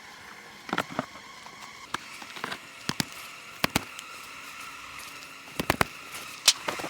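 Honey bees buzzing steadily around an opened hive while wooden hive frames and boxes are handled, giving a scatter of sharp knocks and clicks, a cluster of them near the end.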